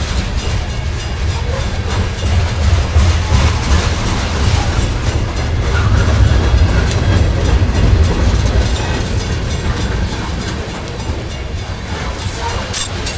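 CSX freight train rolling past slowly, its cars giving a steady, heavy low rumble with faint wheel clicks over the rail joints.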